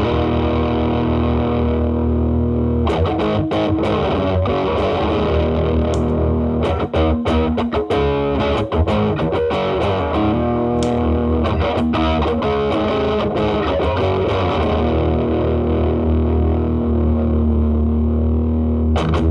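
Distorted electric guitar: a Gibson SG's humbuckers through an MXR Distortion+ pedal set low as a gain boost, driving the drive channel of a Marshall Valvestate amp. Mostly held, ringing chords, with a choppier run of short picked notes about a third of the way in.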